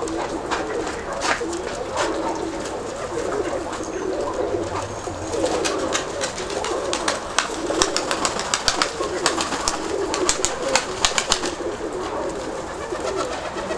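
Nikolaev pigeons cooing, a continuous low warbling from several birds, with a run of sharp clicks and taps through the middle.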